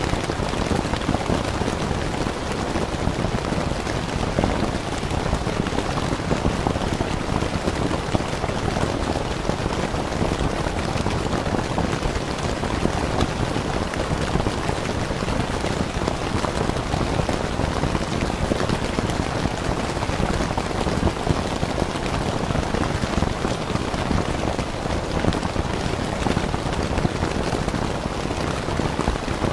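Steady rain falling on a tent, a dense, even wash of drop hits that does not change.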